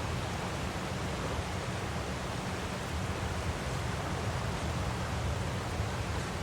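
Waterfall: a steady, even rush of falling water with a heavy low rumble and no breaks or changes.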